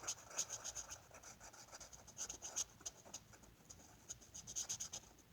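Colouring strokes on paper: quick back-and-forth scratching of a colouring tool shading in an area, in short clusters of rapid strokes.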